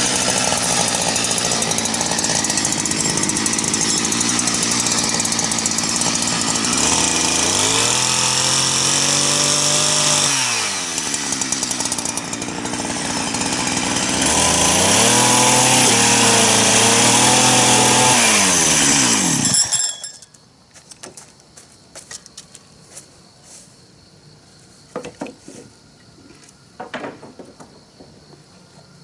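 Two-stroke chainsaw running and cutting wood, its engine pitch dropping and recovering twice as it takes the load. It cuts off suddenly about two-thirds of the way in, followed by a few light knocks.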